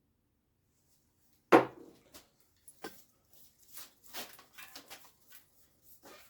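A single sharp knock about a second and a half in, followed by a run of lighter, irregular clicks and scrapes.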